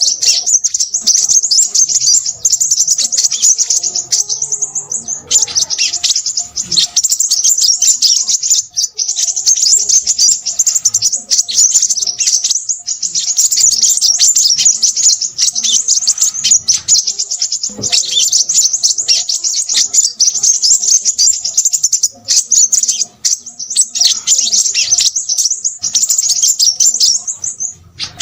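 Crimson sunbird singing a fast, busy, high-pitched twittering song, almost without pause, with short breaks about four seconds in and again about twenty-two seconds in.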